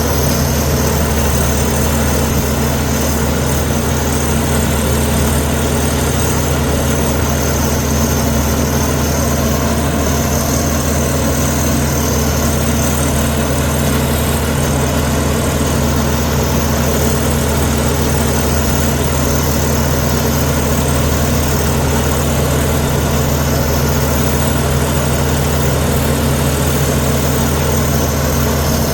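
Komatsu D61EX bulldozer's diesel engine running steadily, a deep even drone with no change in pitch or load.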